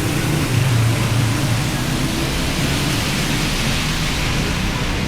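Steady rushing noise of wind and heavy rain on a moving motorcycle's microphone, with the motorcycle engine's low hum underneath, strongest about the first second.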